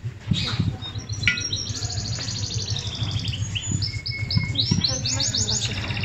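Small birds singing: fast high chirps and trills one after another, some sweeping down in pitch.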